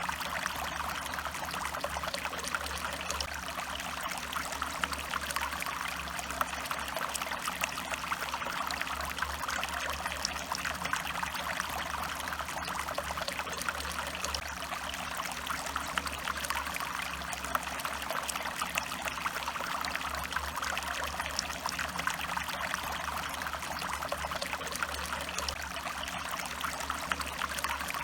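A stream flowing and trickling steadily, its water splashing in an even, unbroken rush.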